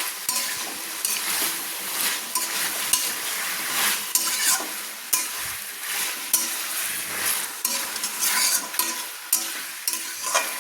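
Chicken pieces with onions and ginger-garlic paste sizzling in hot oil, while a spatula stirs and scrapes them around the pan in frequent, irregular strokes.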